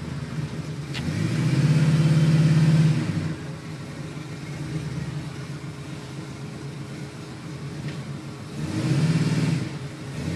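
Radio-controlled monster truck's motor running, revving up loudly for about two seconds near the start and again briefly near the end, with lower throttle in between.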